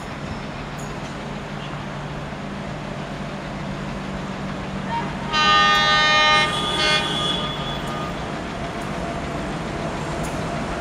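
Train running with a steady low drone; about five seconds in a locomotive horn blows loudly for about a second, followed by a short second toot.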